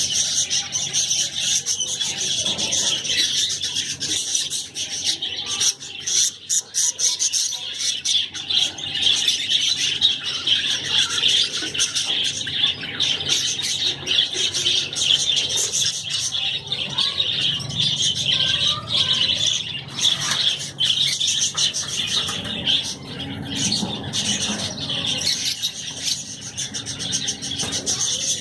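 A flock of budgies and lovebirds chattering and squawking together in a breeding cage, a continuous high-pitched twittering with sharper squawks throughout.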